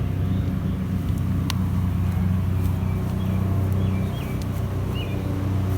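A steady, low engine-like hum with a constant pitch, with a few faint high chirps in the middle.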